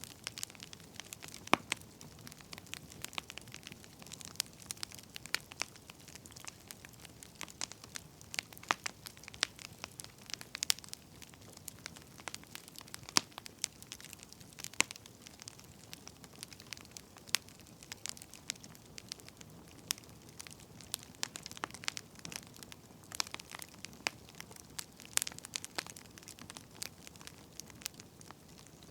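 Burning firewood crackling: irregular sharp pops and snaps, a few louder than the rest, over a steady soft hiss.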